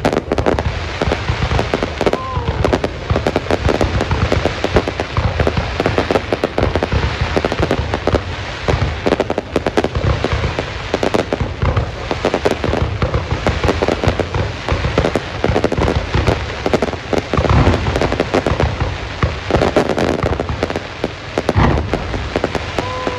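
Aerial fireworks display: a dense, unbroken barrage of bangs and crackling shell bursts.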